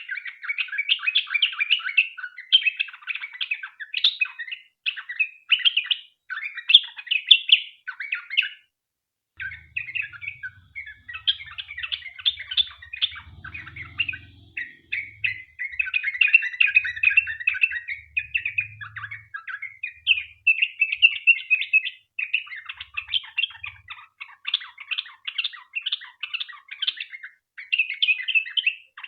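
Yellow-vented bulbul singing a long, fast, chattering song of bubbling notes, almost without break, with one short pause about nine seconds in.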